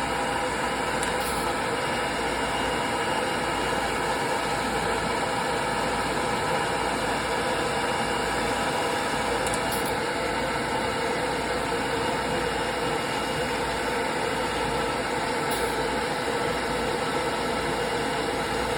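Pet hair dryer blowing steadily: a constant rush of air with a faint motor hum.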